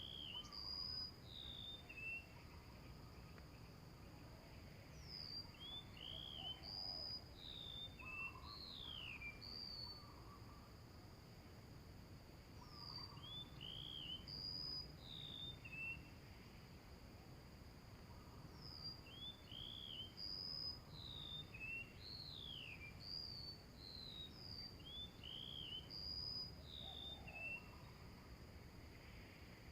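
Small-bird whistled calls, short rising and falling notes in a sequence that repeats almost identically about every twelve seconds, typical of a looped bird-call recording played as a lure to draw small birds in, over a steady high insect drone.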